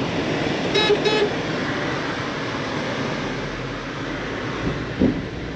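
Car horn giving two short toots in quick succession over steady road noise, with a brief low thud near the end.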